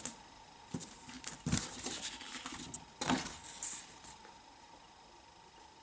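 Hand-unwrapping of a packed item: several short rustles and crinkles of wrapping being handled, spread over the first four seconds.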